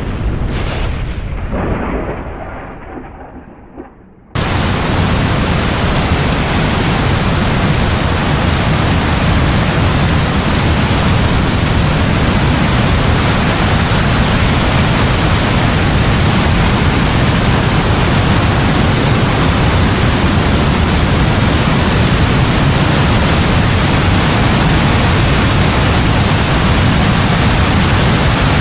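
A thunderclap rolls and rumbles, surging a second time and fading over about four seconds. Then heavy rain comes in all at once and pours on with a steady hiss.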